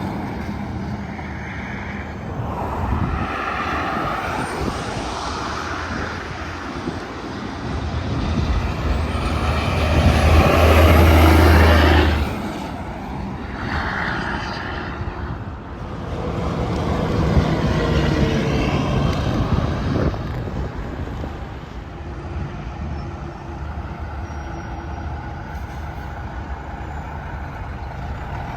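Tractor-trailers passing at highway speed, their engine and tyre noise swelling and fading as each goes by. The loudest pass, with a deep low drone, comes about a third of the way in, and another follows a few seconds later.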